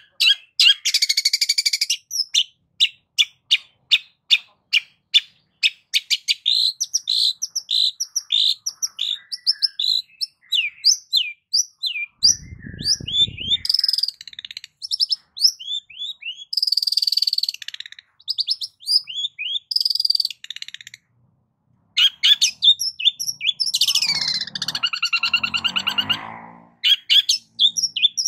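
A long-tailed shrike (cendet) singing a varied, mimicking song: fast runs of sharp repeated notes and quick down-slurred whistles, mixed with harsh scratchy calls. About twelve seconds in there is a short low buzz, and near the end a longer call that slides down in pitch.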